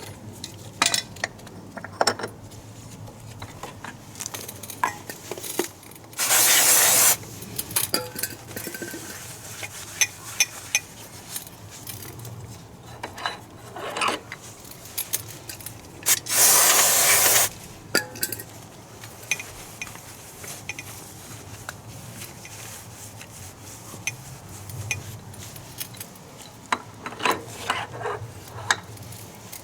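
Hand tools and small metal parts clinking and knocking in irregular short clicks. Two loud hissing bursts of about a second each come about six and sixteen seconds in.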